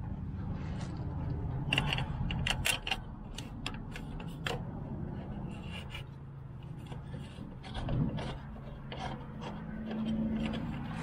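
Scattered metal clinks, knocks and scraping of hand tools working an exhaust pipe clamp, over a low steady hum.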